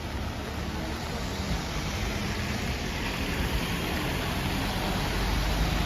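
Steady hiss of rain and wet traffic on a city street, with a low rumble growing toward the end.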